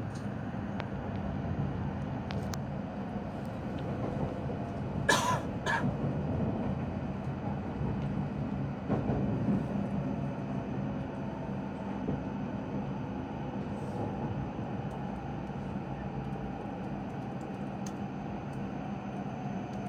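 Steady rumble of a Joetsu Shinkansen train running, heard from inside the passenger car. A short, loud double burst cuts through about five seconds in.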